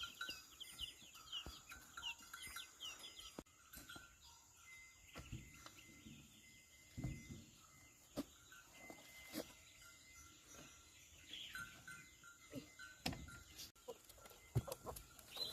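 Chickens clucking faintly, with quick high chirping calls in the first few seconds and scattered small knocks and clicks.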